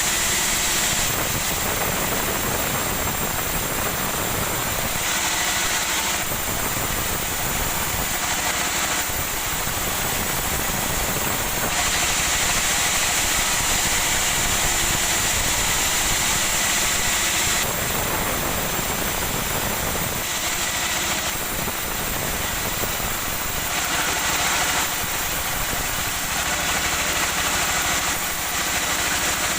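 Woodworking machinery running steadily in a sawmill, with a high hissing whine that comes in and drops out in stretches of a few seconds, as stock is fed through and cut.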